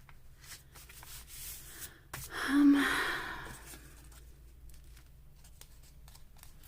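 Paper and craft supplies being handled on a table: light clicks and rustles, with a louder rustle about two and a half seconds in.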